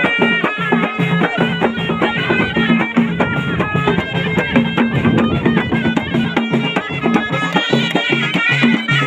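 Traditional Moroccan ghaita, a loud double-reed shawm, playing a fast, ornamented folk melody in quick stepping notes over a steady drum beat.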